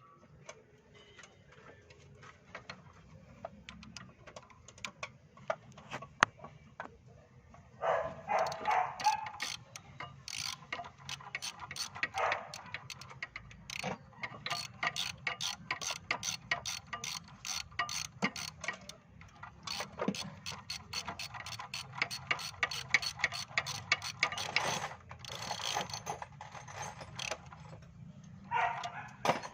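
Rapid metallic clicking in bursts, like a ratchet working, around a Hyundai Starex engine, over a low steady hum. The clicking is sparse at first and turns dense about eight seconds in, pausing briefly now and then.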